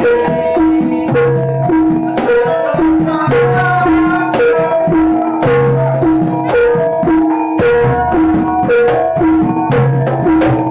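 Jaranan ensemble music: drums struck in a busy rhythm under tuned gongs that repeat a short ringing melodic phrase over and over.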